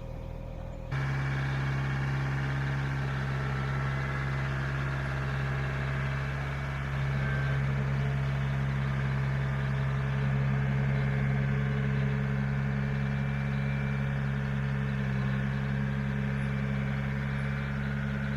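Large truck engine idling steadily with a low, even hum; it comes in abruptly about a second in and gets a little louder about seven seconds in.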